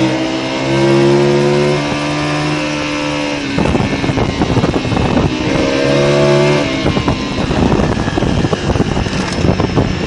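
Motorcycle engine running at steady revs. From about three and a half seconds in, a dense rough crackling noise takes over, with the engine note coming back briefly around six seconds in.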